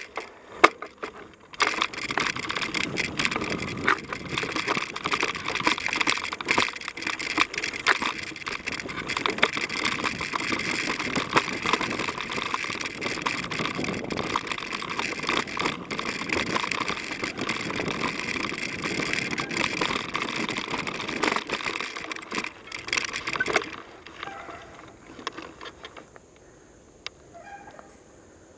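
Mountain bike riding down a dirt trail: tyres rolling over dirt, roots and leaves with a steady noise and many clicks and knocks from the bike. The noise stops abruptly about 24 seconds in, leaving only faint scattered sounds.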